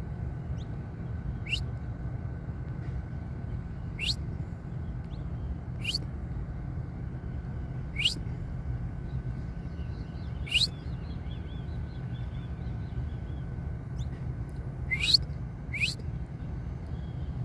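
Saffron finch giving short, sharply rising chirps, one every two seconds or so, with a quick pair near the end. A steady low rumble runs underneath.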